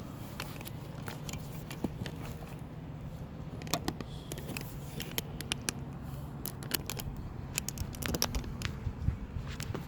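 Handling noise from a camera being moved and repositioned: scattered clicks, taps and rustles, more frequent from about four seconds in, over a steady low hum.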